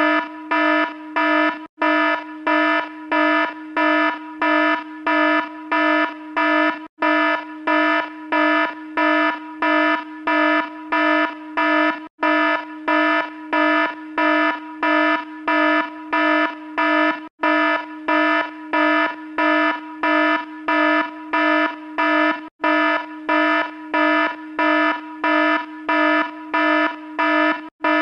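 Electronic alarm sounding a buzzy pulsing tone, about two beeps a second, with a brief gap roughly every five seconds.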